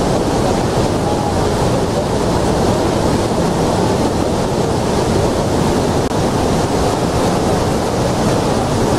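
Steady roar of heavy falling water and spray at Iguazu Falls, with wind buffeting the microphone.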